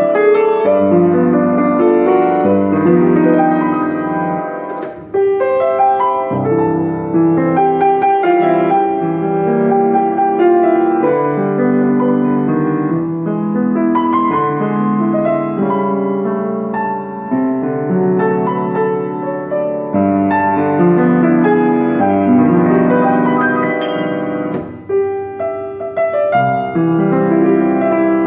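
A German-built Steinway & Sons upright piano being played: a piece in sustained, changing chords, with one brief click about five seconds in.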